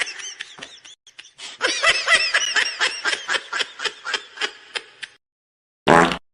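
A person laughing in a long run of short, high-pitched pulses, about six a second, trailing off after about five seconds. A separate short burst of sound follows near the end.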